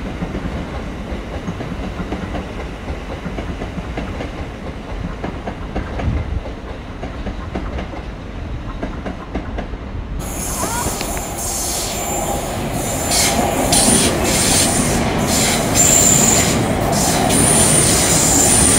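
An electric multiple-unit train rumbling as it pulls away along the platform, then, from about halfway, a South Western Railway electric multiple unit running close by, louder, with high-pitched wheel squeal and clicking of the wheels over the rail joints.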